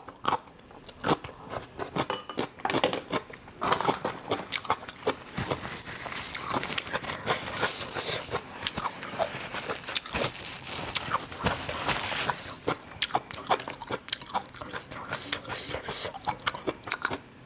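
A person biting and chewing crunchy food close to the microphone, with many quick, irregular crunches.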